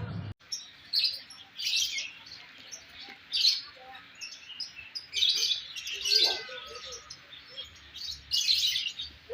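Small birds chirping: short clusters of high chirps repeating about every second or two, with a lower call a little after the middle.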